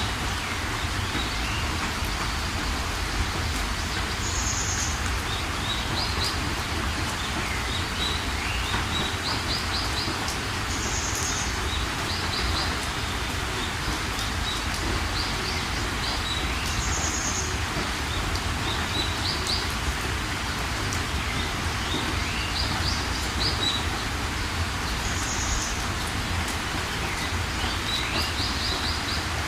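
Steady rain with birds calling over it: a short high call that recurs about every six seconds, with quick runs of chirps and rising whistles in between.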